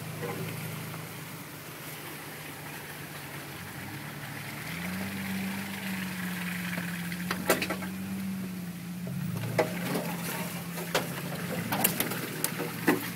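Toyota FJ Cruiser's 4.0 L V6 engine running off-road. Its pitch rises about five seconds in and falls back near ten seconds, with a few sharp knocks and clatters in the second half.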